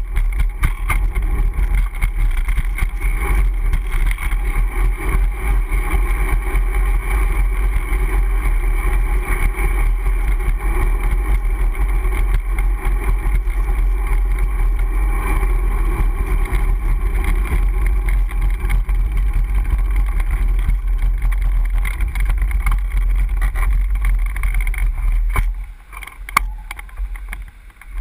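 Steady, loud wind and road rumble buffeting a GoPro HeroHD's microphone while riding a Brompton folding bicycle. The rumble eases for a couple of seconds near the end, then returns.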